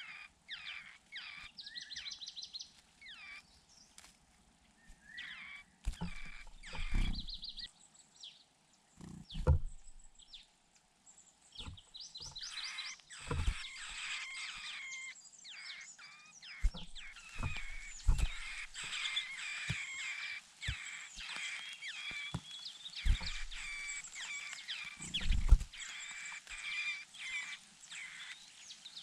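Nestlings giving rapid, high begging chirps and trills for a parent bird at the nest, busiest in the second half. Several dull low thumps are heard along the way.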